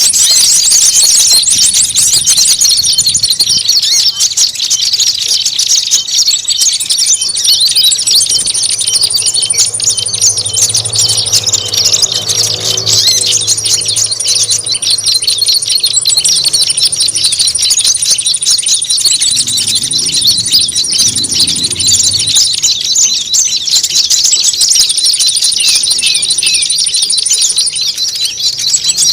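Dense, continuous chatter of many small songbirds: rapid, overlapping high chirps and trills layered into a noisy bird-lure mix of agitated, fighting-style calls. A thin, very high trill comes and goes above the chatter, and a faint low hum sits under it around the middle.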